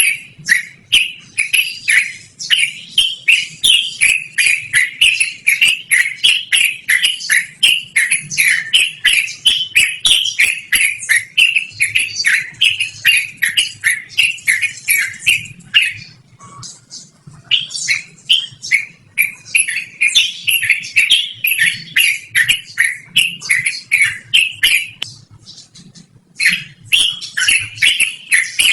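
Yellow-vented bulbul (trucukan) singing a long, loud continuous run of quick sharp notes, several a second, pausing briefly twice before starting again.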